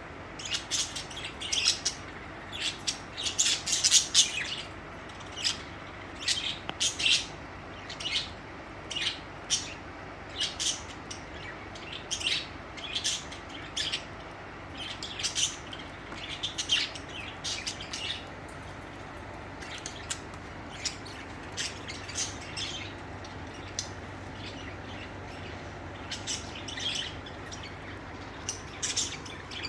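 Pet budgerigars chirping: short, high calls in quick irregular runs, busiest in the first half and thinning out later.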